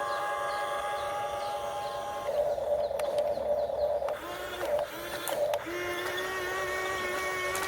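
Small electric motors and gearboxes of radio-controlled construction models whining: a steady run that shifts pitch about two seconds in, a few short stop-start bursts, then a longer steady whine.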